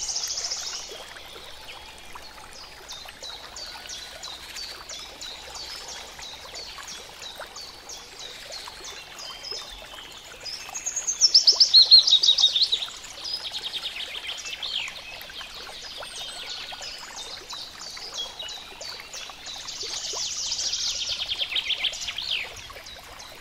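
Wild birds chirping: a run of short, high repeated chirps, with two loud, rapid, falling trills, one about halfway through and one near the end, over a steady background hiss.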